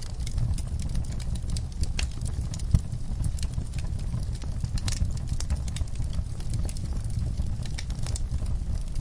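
Wood fire crackling in a fireplace: irregular sharp crackles and snaps over a steady low rumble, with one louder pop about three seconds in.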